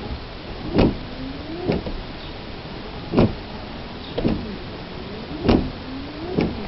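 Car starter motor cranking the engine very slowly on a flat battery: a heavy knock roughly once a second, in uneven pairs, with the starter's whine rising in pitch between knocks as it labours.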